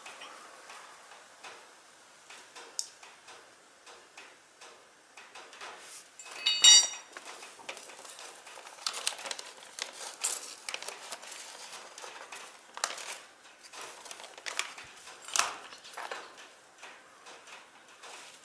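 Hand tools and small metal parts clicking and clinking in irregular taps during brush cutter repair work, with one louder ringing metallic clink about six and a half seconds in.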